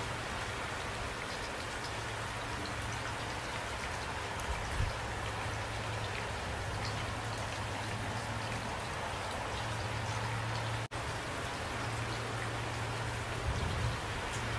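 Steady rain falling, with a steady low hum underneath. The sound drops out for an instant about eleven seconds in.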